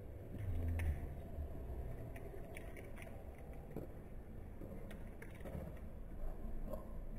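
People eating chocolate snacks close to the microphone: soft chewing with small crunches, clicks and rustles, over a low steady background rumble, with a brief low hum about half a second in.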